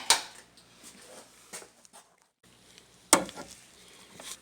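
Light clinks and handling knocks of metal tools and parts in an engine bay, with one sharp knock about three seconds in.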